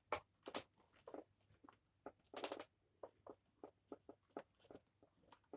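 Faint, irregular clicks and rustles of the Dyson DC07's power cord being handled and wound onto the vacuum.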